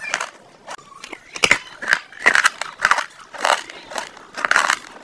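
A person eating close to the microphone: chewing and lip-smacking mouth sounds in short bursts, about two a second.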